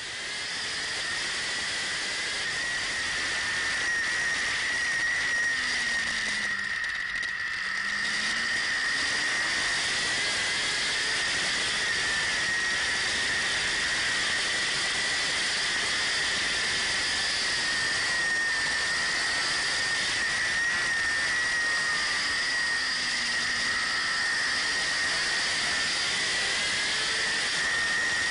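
Racing superbike at speed heard from an onboard camera: a steady high-pitched whine over wind rush, with the engine note dropping and climbing again about six seconds in and once more near the end as the bike brakes for corners and accelerates out.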